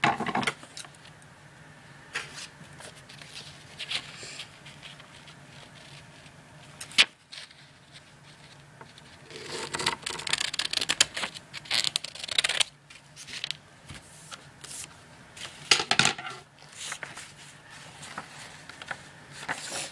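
Paper being handled and folded by hand: intermittent rustling and crinkling, busiest in the middle, with a single sharp click about seven seconds in.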